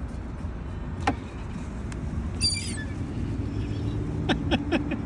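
Seagulls giving a short, high call about halfway through and a quick run of sharp, short calls near the end, over a steady rumble of city traffic.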